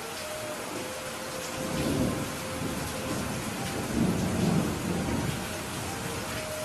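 Steady rain falling, with low thunder rumbling up about two seconds in and again, louder, around four to five seconds.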